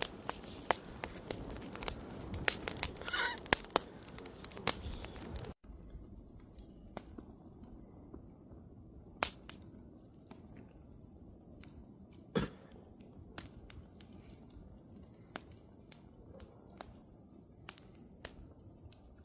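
Wood campfire crackling with sharp pops and snaps, dense for the first five seconds or so, then dropping abruptly to a quieter crackle with scattered pops, two of them louder.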